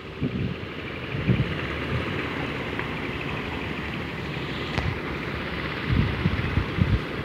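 Sany SR150C rotary drilling rig's diesel engine running steadily as the crawler rig travels, with irregular low thumps and a single sharp click about five seconds in. Wind buffets the microphone.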